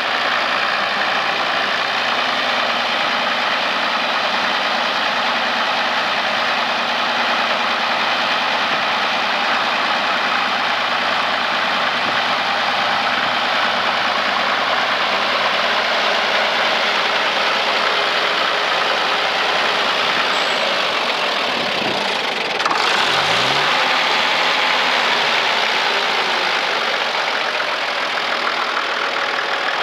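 1961 Case 930 tractor engine running steadily at idle, then speeding up about three-quarters of the way through and holding a higher, slightly louder speed.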